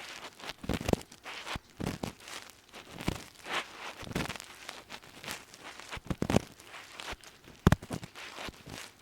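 Ear pick scraping and rustling inside a binaural dummy ear in irregular, gritty strokes, several a second, with one sharper click near the end.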